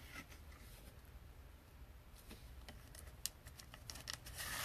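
Faint clicks and light rustling of trading cards being handled, with a few sharper ticks near the end.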